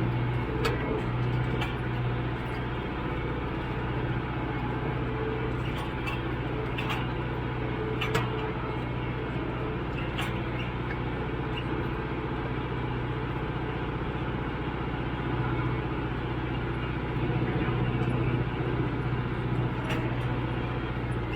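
Tractor engine running steadily at a constant speed, with a few sharp knocks or clanks scattered through it.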